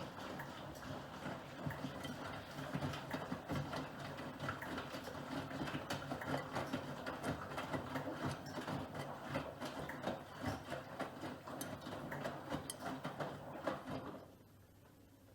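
Miele Professional PW6065 Plus washing machine in its 60 °C colour wash: the drum turning, with laundry tumbling and clattering irregularly over a steady motor hum. The drum stops about 14 seconds in and the sound drops away.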